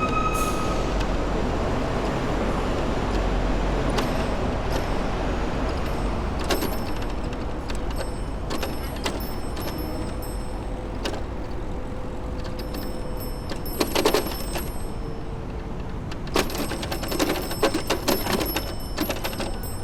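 City traffic and road noise heard from a moving bicycle, a steady rumble throughout. Short bursts of rattling clicks come about two-thirds of the way in and again near the end.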